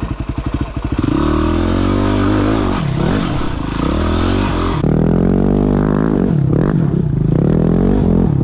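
Dirt bike's single-cylinder engine ticking over with an even, rapid beat, then from about a second in being ridden on the throttle, its pitch rising and falling again and again as the throttle is opened and closed.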